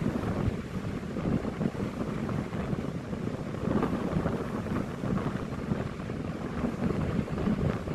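Strong storm wind buffeting the microphone in a steady low rumble that rises and falls with the gusts.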